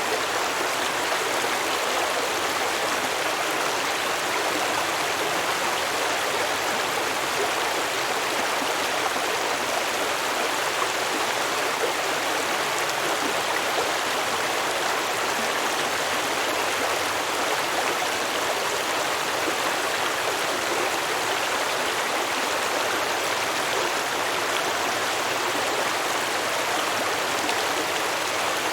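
A stream of water flowing and babbling over rocks, a steady even rush of water.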